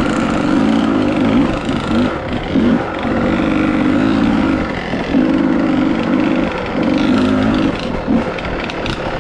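Dirt bike engine running under throttle in repeated bursts of about a second each, with short let-offs and a few quick blips between them.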